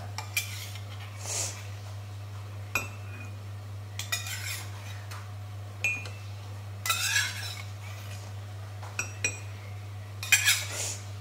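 A metal tablespoon clinking against a mug a few times, with short scraping and splashing sounds, as spoonfuls of milk are measured in. A steady low hum runs underneath.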